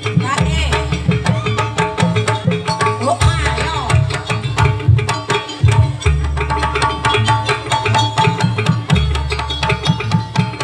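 Jaranan Buto accompaniment music, led by fast, dense hand-drum strokes over deep low drum or gong tones, with a held high note and sliding melodic lines above.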